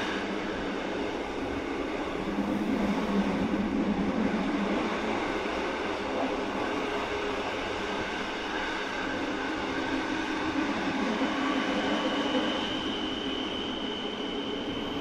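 Rhaetian Railway metre-gauge electric train running along the track with a steady running noise. A thin high tone joins in about eleven seconds in.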